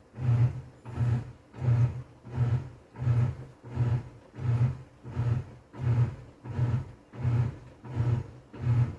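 TCL 7.5 kg top-load washing machine in its wash cycle, the motor driving the pulsator back and forth through the water: a low hum with churning, in even strokes about every 0.7 seconds. The cycle is in its last minute, close to switching off.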